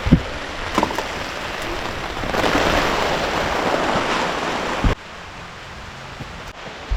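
Heavy rain pouring down, with a few dull thumps. The rain noise swells louder about two and a half seconds in, then drops off suddenly about five seconds in.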